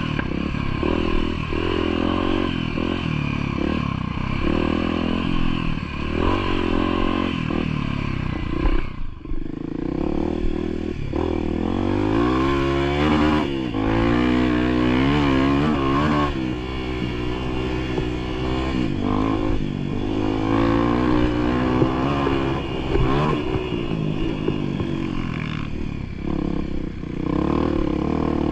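Off-road vehicle engine running under way, its pitch rising and falling as it revs through uneven going, with rattling over the rough trail. It briefly drops about nine seconds in, then picks up again.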